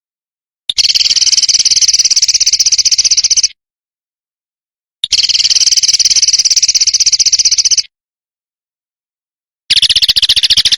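A songbird's rapid rattling trill (besetan), very fast repeated notes in three bursts of about three seconds, the last one shorter and starting near the end, each cut off by dead silence, as on an edited bird-song training track.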